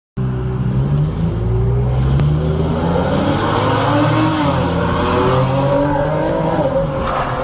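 Motor vehicle driving on a road: engine running with its pitch wavering up and down over steady road noise, cutting in suddenly just after the start.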